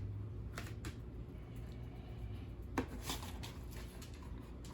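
Hands spreading a chicken, spinach and onion topping over a pizza: a few soft rustles and light taps, the clearest about a second in and near the three-second mark, over a steady low hum.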